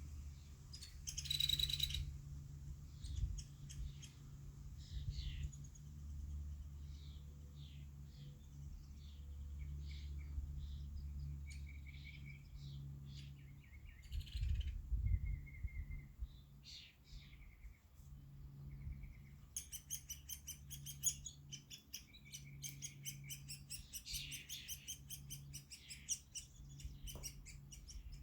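Woodpecker chick calling in short high chirps, breaking about two-thirds of the way in into a fast, continuous run of calls. A steady low hum underlies it.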